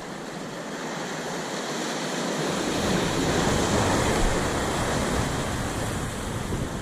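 Ocean surf washing in on a rocky shoreline: a wave swells louder through the middle and then eases off.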